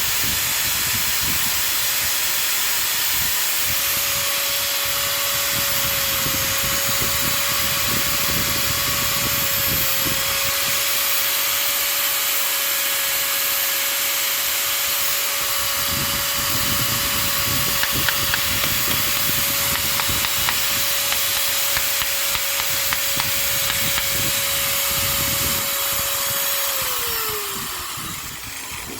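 Makita M9510 angle grinder running steadily with a constant whine and a hiss, then switched off near the end, its pitch falling as it winds down.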